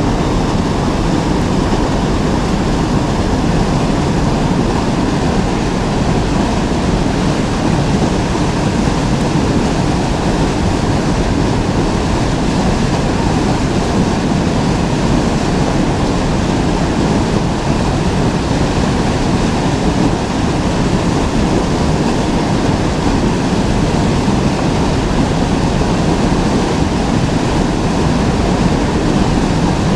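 Steady rushing of a flowing river, an unbroken wash of water noise with no voices over it.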